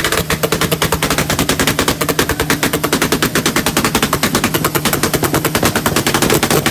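Car engine held at its rev limiter with a rapid machine-gun string of exhaust pops and bangs, about ten a second. The revs drop away at the very end.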